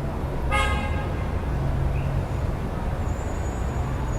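City street traffic heard through an open window: a steady low rumble of engines and tyres. A brief high-pitched sound with several pitches cuts through about half a second in, and a faint thin whine begins near the end.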